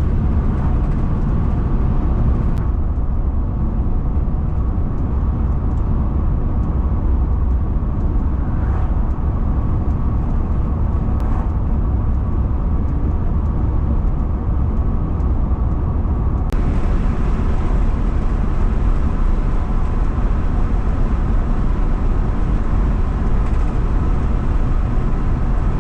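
Steady road and engine noise heard from inside a moving van, mostly a low rumble. The sound turns duller for a long stretch in the middle, then brightens again.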